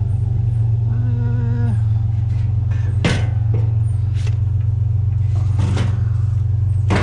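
Steady low drone of a vehicle driving, with a few light knocks and rattles and a brief pitched tone about a second in.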